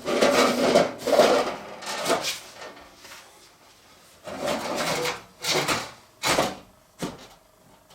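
An aluminium frame scraping and rubbing against the fireplace opening as it is pushed into place. There is a dense stretch of scrapes at first, then three shorter scrapes and a light knock near the end.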